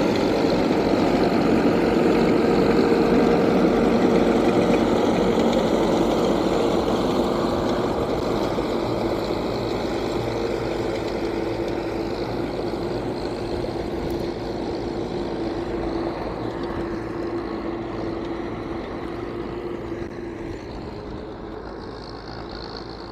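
T-74 crawler tractor's diesel engine running steadily under load while plowing. The sound grows gradually fainter through the whole stretch.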